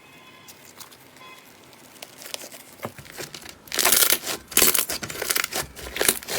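Slime being kneaded and stretched by hand, quiet at first, then from a little past halfway a dense run of sharp crackles and pops as air pockets burst.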